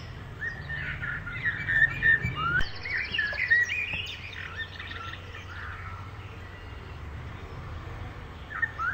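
Several birds chirping and calling in short overlapping notes, including a fast high trill, busiest in the first half and thinning out toward the end, over a steady low hum.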